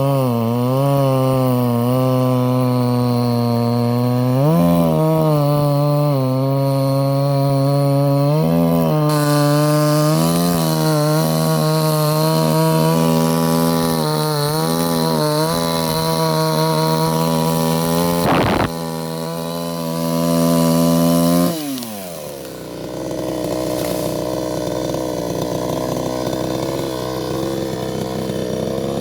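Two-stroke chainsaw running at high revs, its pitch dipping and recovering again and again as it cuts wood. About three quarters of the way through, the pitch drops steeply as the throttle is released, and a quieter, rougher engine sound carries on.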